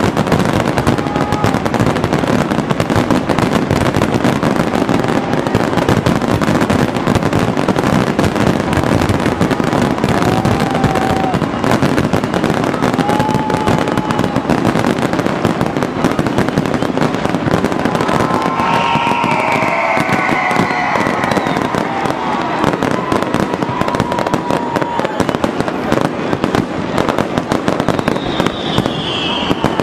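Fireworks and firecrackers going off without a break, a dense crackle of pops and bangs.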